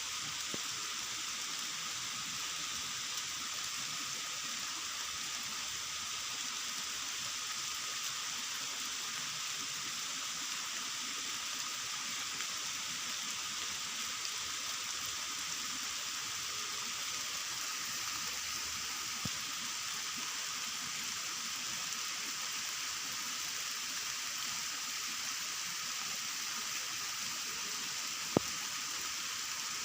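Steady rain hiss with no letup, and one sharp click near the end.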